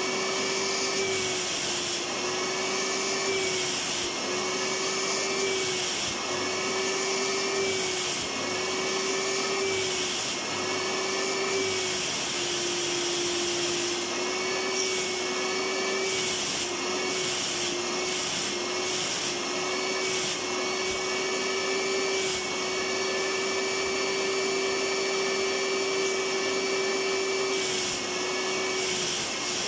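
Electric vacuum cleaner running continuously: a steady motor whine over a rushing airflow hiss, its pitch wavering slightly every second or two.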